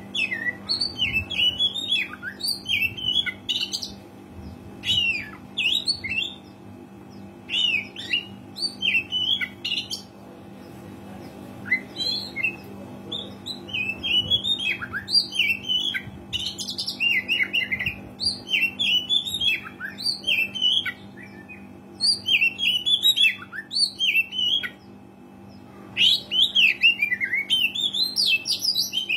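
Oriental magpie-robin singing energetically: quick runs of varied whistles and chirps in phrases of one to two seconds, with short pauses between them. A faint steady hum lies underneath.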